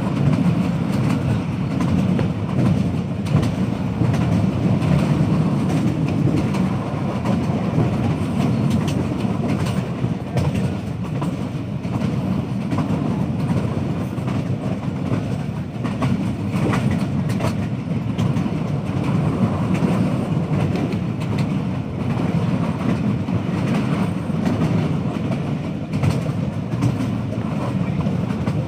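Passenger train running along the track, heard from on board: a steady low rumble of wheels on rails with scattered clicks.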